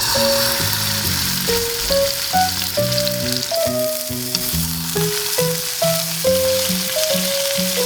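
Food sizzling in a hot frying pan, starting suddenly at the outset and going on steadily, under background music.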